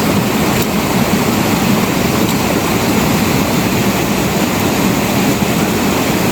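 Heavy rain falling, a loud steady hiss with no letup.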